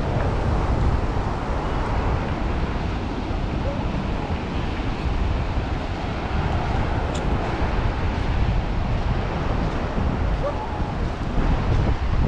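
Ocean surf washing onto the beach, a steady wash of noise, with wind buffeting the microphone as a low rumble.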